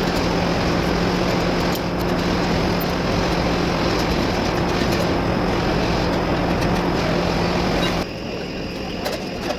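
Volvo truck diesel engine running with a steady note. About eight seconds in the note stops and the sound drops to a quieter background noise.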